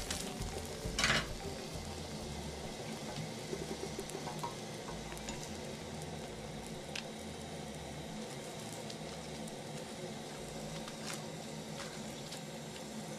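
Chapati sizzling as it fries on a flat griddle pan, with fat melting on top as it is spread with a spoon. A short clatter of a metal utensil against the pan comes about a second in, with a few light ticks later.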